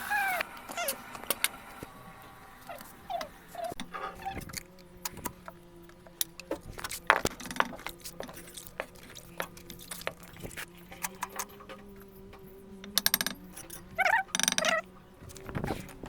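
Scattered clicks and knocks of hands-on work, mixed with a few short chirps from the birds, the loudest calls at the start and around 14 s. A faint steady hum runs underneath from about 4 s in.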